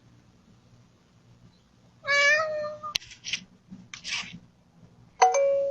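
A domestic cat meows once, about two seconds in, followed by a couple of short noisy sounds. Near the end comes a sudden ding that holds a steady pitch, like a chime.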